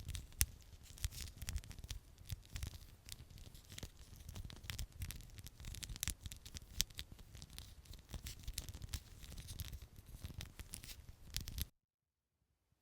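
Close-up ASMR scalp and hair care: fingers or a brush working through hair against the scalp, heard as dense, fine crackling and scratching. It stops abruptly near the end, leaving about a second of dead silence.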